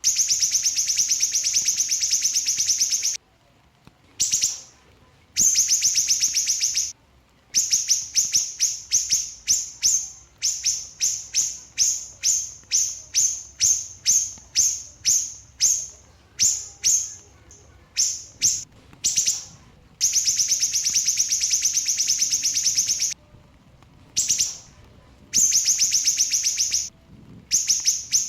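Small siri-siri songbird singing its fast song: long rattling runs of rapid high chirps, each run lasting two to three seconds, with a stretch in the middle of separate notes about one to two a second.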